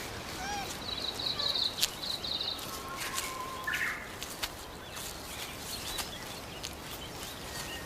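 Forest ambience: small birds chirping, with a high, rapid trill from about one second in that lasts about a second and a half, over a steady hiss with scattered light clicks and rustles.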